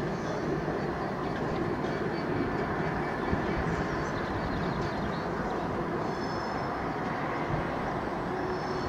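British Rail Class 66 diesel-electric locomotive's two-stroke V12 EMD engine running steadily as it hauls a freight train of empty wagons along the line, with a continuous rumble of the train on the track. A few faint, brief high-pitched squeals sound about six seconds in and again near the end.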